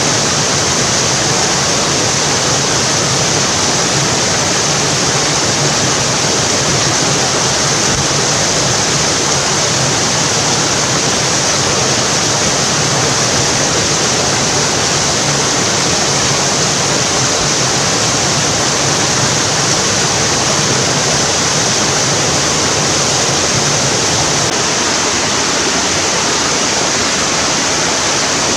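Mountain stream rushing over rocks: a loud, steady, unbroken rush of water.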